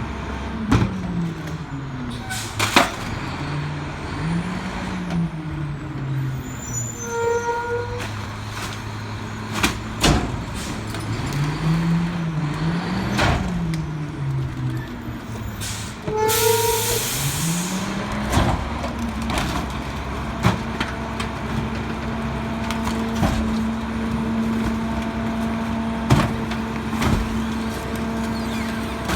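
Garbage truck's diesel engine revving up and down twice as the McNeilus rear-loader packer cycles, with repeated knocks and clatter of trash being compacted and short hydraulic squeals. A burst of air hiss comes about 16 seconds in, then the engine settles to a steady fast idle.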